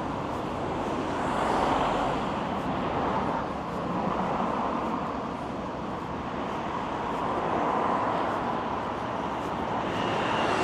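Road traffic: cars passing along the street, the tyre and engine noise swelling and fading several times.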